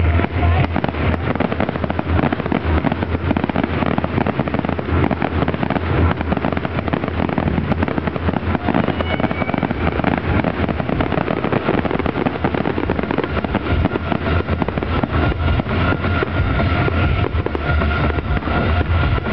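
Fireworks display: a dense, continuous barrage of bangs and crackling over a steady low hum.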